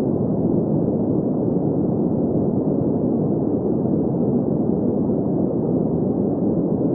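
Green noise: a steady, even hiss centred in the low mids, with the highs rolled off so it sounds soft and rumbling.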